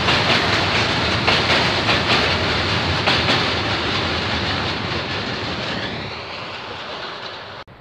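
Freight train of tank wagons rolling past, its wheels clicking over the rail joints. The rumble fades away as the last wagon goes by about halfway through, then the sound cuts off abruptly near the end.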